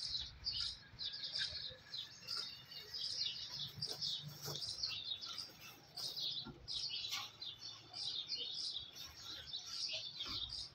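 Small birds chirping busily: many short, quick chirps overlapping without a break.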